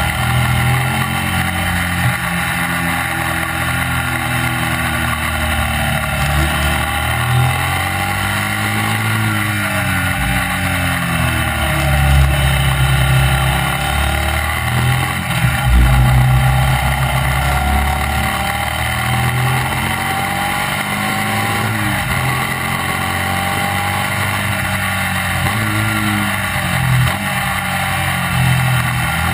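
Classic racing sidecar outfit's engine running hard at racing speed, its revs repeatedly climbing and dropping as it goes through the gears and into corners, with a steady rush of wind and road noise on the onboard microphone.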